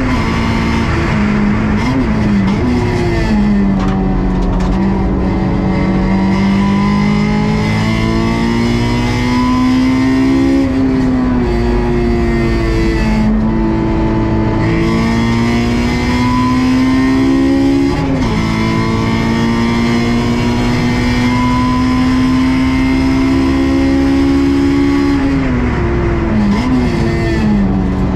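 Honda S2000 AP2's 2.2-litre four-cylinder engine under hard acceleration, revs climbing steadily through the gears with sharp drops at upshifts about ten and eighteen seconds in. Near the end the revs fall with quick throttle blips as it downshifts under braking.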